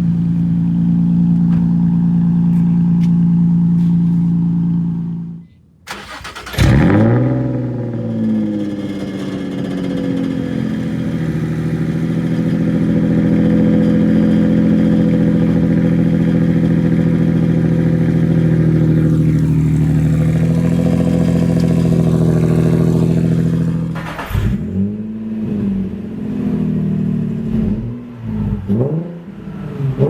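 Nissan 350Z's VQ35 V6 running through a new custom dual-pipe exhaust with the stock catalytic converters still fitted. The engine runs steadily, then breaks off about five seconds in. It catches again with a sharp rev and settles into a steady drone. From about three quarters of the way through it is blipped several times, rising and falling.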